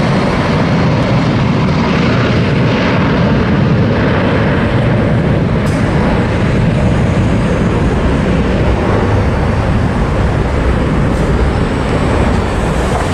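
British Airways Boeing 747-400 jet taking off, its four Rolls-Royce RB211 engines at takeoff thrust making a loud, steady rumble that eases slightly near the end.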